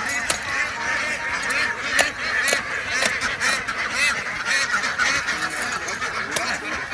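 A large flock of ducks quacking all at once: a dense, continuous chorus of many overlapping calls.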